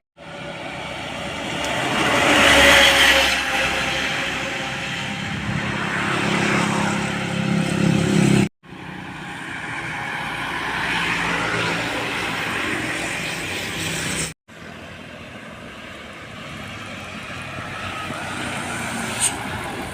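Heavy road vehicles driving past with engine and tyre noise; the loudest passes about two to three seconds in. The sound cuts abruptly to silence twice, splitting it into three separate passing scenes.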